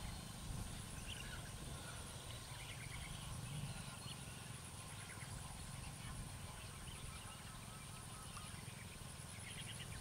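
Faint, scattered bird calls: short chirps and little trills, most noticeable near the end.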